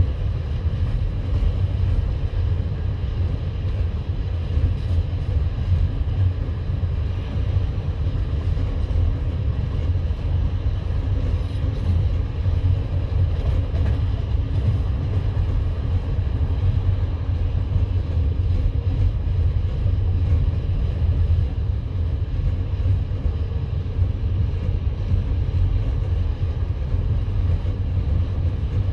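Passenger train running at speed between stations: a steady low rumble of wheels on the rails, heard from inside the carriage.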